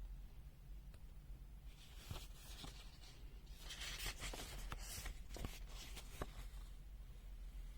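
Rustling and a few sharp light clicks of small items being handled, in bursts from about two seconds in until just past six seconds, over a low steady hum.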